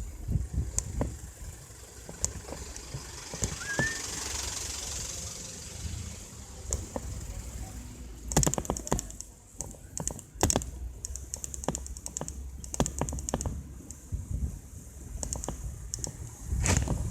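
Mountain bike ticking and rattling as it is ridden, with runs of rapid clicks in the second half, over a steady low rumble.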